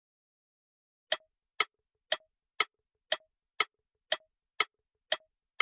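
Clock ticking as a countdown sound effect: about ten sharp, even ticks at two a second, starting about a second in.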